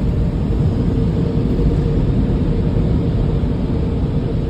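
Steady low rumble of automatic car wash machinery heard from inside the car, with a faint steady hum running through it.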